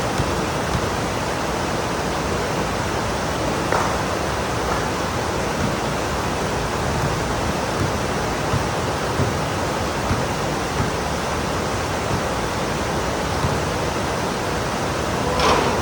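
Heavy rain pouring down, a steady, even hiss, with a few faint brief knocks and a short louder splash near the end.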